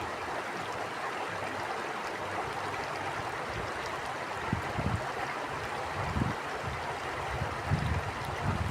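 Stream water flowing with a steady rushing. From about halfway through, irregular low rumbles of wind gusting on the microphone come and go.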